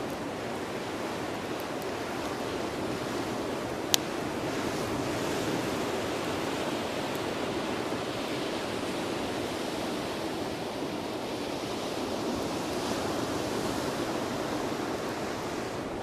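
Surf breaking on a sandy beach, a steady wash that swells and eases with the waves. About four seconds in, a single sharp pop from burning bonfire wood.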